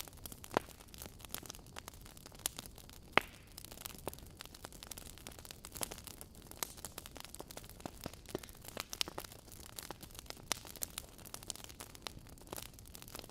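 Wood fire of burning logs crackling in a fireplace: irregular sharp pops and snaps over a soft steady hiss, with the two loudest pops about half a second and three seconds in.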